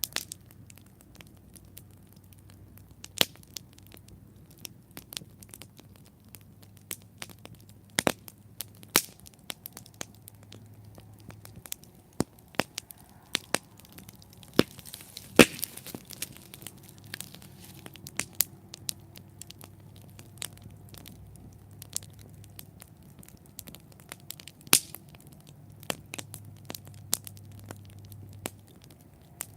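Wood campfire burning, with irregular crackles and sharp pops; the loudest pop comes about halfway through with a brief hiss around it. A faint low hum runs underneath.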